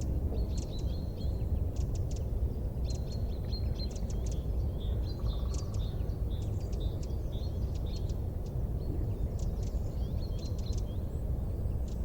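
Small birds chirping in quick repeated short notes over a steady low rumble.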